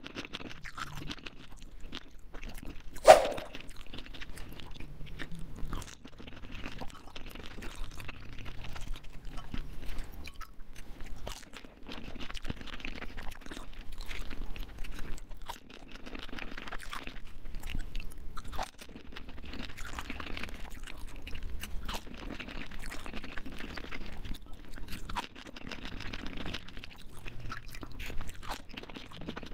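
Close-miked crunching and chewing of pani puri: crisp fried puri shells cracking between the teeth, with irregular crackles throughout and one loud, sharp crack about three seconds in.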